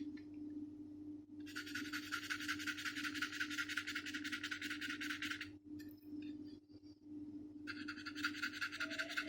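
Paintbrush scratching across a painted wooden surface in two long stretches of quick back-and-forth strokes, over a faint steady hum.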